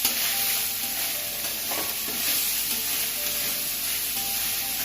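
Fried rice and prawns sizzling in a hot pan while being stirred, a steady frying hiss.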